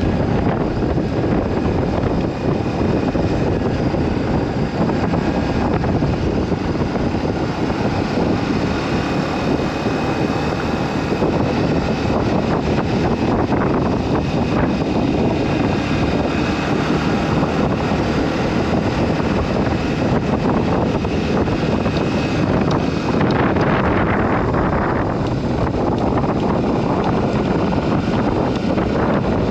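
Wind rushing steadily over the microphone of a moving motorcycle, with the bike's engine running underneath.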